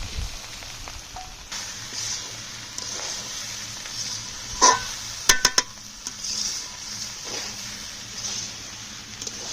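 Rice being stir-fried in a kadai with oil, egg and prawns: a steady sizzle that swells and fades with the stirring. A few sharp metal clacks of a utensil against the pan come about halfway through.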